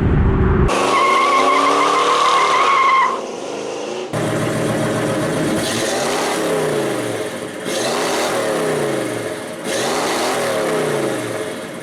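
Vehicle sounds in several abruptly cut clips: a steady, wavering high squeal for the first couple of seconds, then engine and road noise with repeated sweeps.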